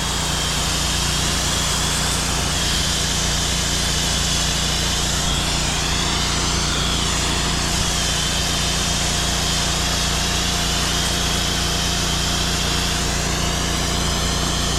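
Engine-driven pressure washer running steadily while its spray wets down a roof, with a low engine hum under a high spray hiss that wavers in pitch.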